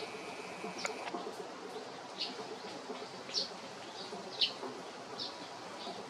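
A small songbird calling: a series of short, high chirps roughly once a second, the loudest about four and a half seconds in, over a steady outdoor background hum.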